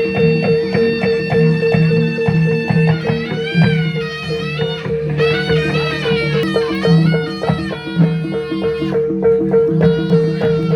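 Javanese kucingan folk-dance music: a gamelan-style ensemble of struck metal keys and drums playing a repeating pattern over a steady ringing tone, with a high wavering melody line through the middle.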